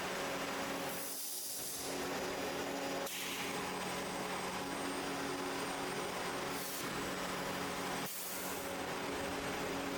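Steady factory machinery hum, broken by short bursts of hissing air, three times. The hum changes its pitch abruptly a few times.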